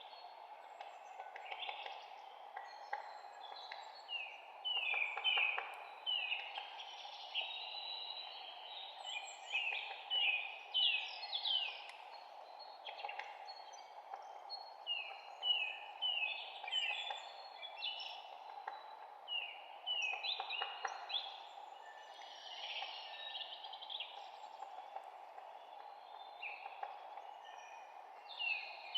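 Several songbirds chirping, many short notes that slide downward, repeated throughout, over a steady low background hiss.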